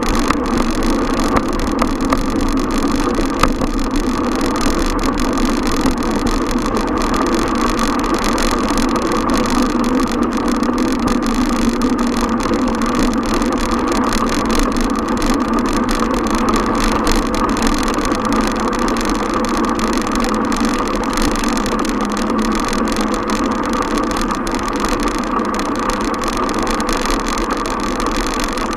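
Steady rushing noise of a moving bicycle ride: wind over the bike-mounted camera's microphone, mixed with city road noise. It stays even throughout, with no distinct events.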